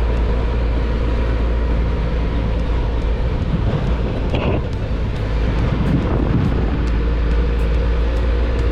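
A motor vehicle travelling on the road: a steady low engine and road rumble.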